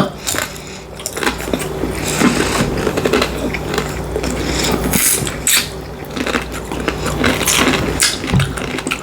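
Close-miked eating sounds: chewing and mouth noises with many irregular clicks and scrapes, over a steady low hum.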